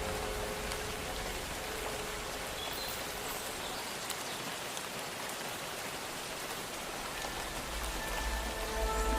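Steady rain falling, an even hiss of drops. Faint held music tones sound in the first couple of seconds, and soft music with a low bass swells in near the end.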